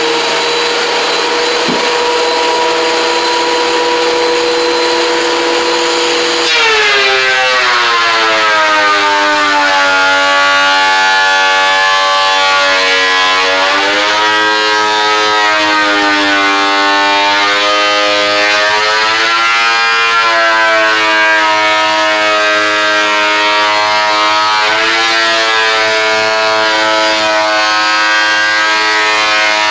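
Woodworking power tool's electric motor whining steadily, then about six seconds in its pitch sags sharply as it takes up a cut in a board, wavering up and down under the changing load.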